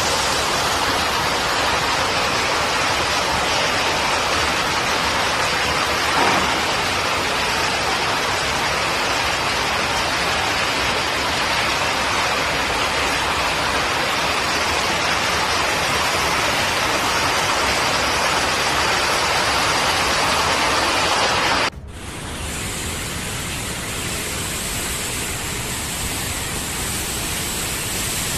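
Heavy rain pouring in a steady, dense hiss. It cuts out for an instant about 22 seconds in and comes back slightly quieter.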